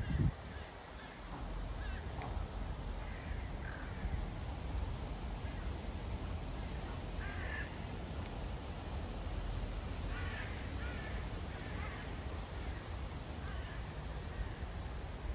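Birds calling now and then, with a run of several calls about two-thirds of the way through, over a steady low wind rumble on the microphone.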